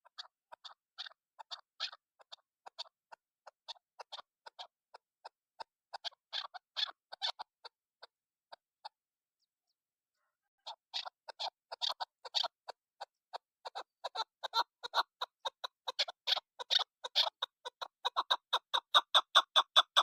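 Chukar partridge calling: a long series of short, clucking notes. It breaks off for about two seconds midway, then comes back faster and louder, building into a rapid run at the end.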